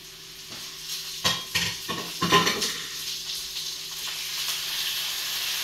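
Lightly browned onions frying in oil and butter in a frying pan, sizzling. Sharp knocks and scrapes come about one to two and a half seconds in, as spices and chillies are tipped in from a plate. The sizzling grows louder once tomatoes are tipped in.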